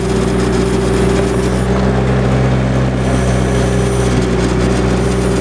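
1999 Bobcat X331 mini excavator's four-cylinder diesel engine running steadily while the machine is worked through a turn.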